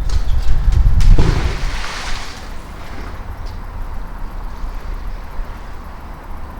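Fishing magnet splashing into the canal about a second in, the splash fading over a second or so. Heavy low thumps and rumble of rope and handling on the microphone come with it.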